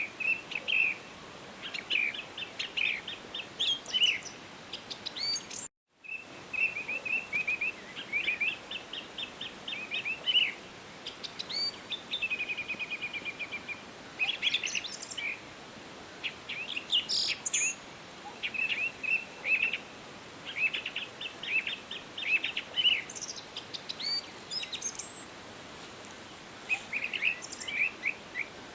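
Several forest birds singing and calling over a steady background hiss, in short chirping phrases with a fast, even trill about twelve seconds in. The sound drops out completely for a moment just before six seconds.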